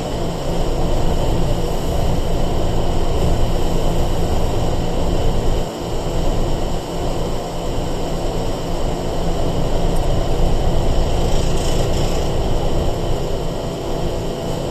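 In-car running noise of a Sangi Railway 101 series electric train (ex-Seibu 401 series) under way: a steady heavy rumble of wheels on rail with a constant hum, and a brief higher hiss near the end.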